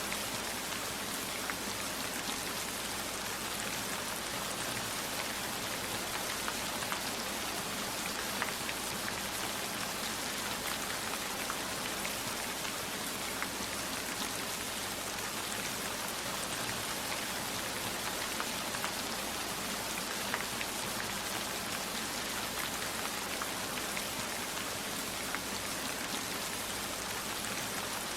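Steady heavy rain, an even hiss with many scattered sharp drop taps throughout.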